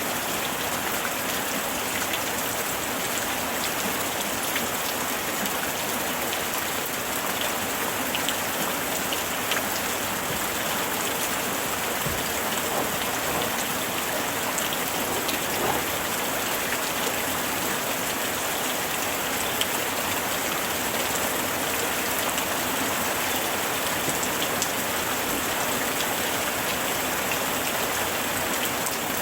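Steady summer rain falling, an even hiss with scattered individual drops ticking on a surface.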